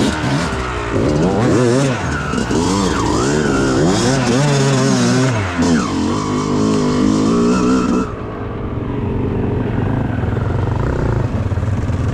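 Dirt bike engine revving as it is ridden, its pitch climbing and falling again and again. About eight seconds in it drops to a lower, steady running sound.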